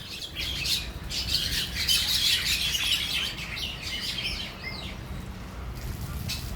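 White terns giving a dense run of chattering, squawking calls that fades out near the end, with a few short gliding notes.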